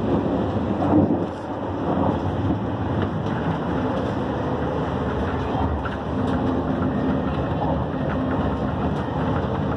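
Steady rumble and rush of a Railjet passenger coach running along the track, heard from inside the car, with a brief louder jolt about a second in.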